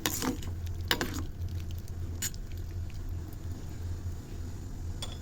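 A spoon stirring soup in a pot, knocking and scraping against the pot a few times, loudest at the start and about a second in, over a steady low hum.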